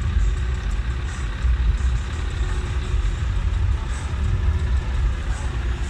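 Truck engine idling with a low, steady rumble.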